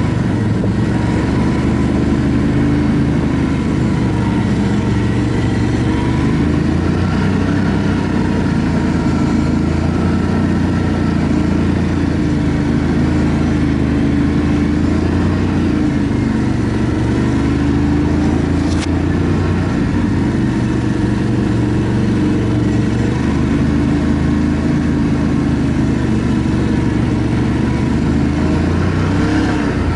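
ATV engine running steadily under way, its pitch drifting gently up and down with the throttle.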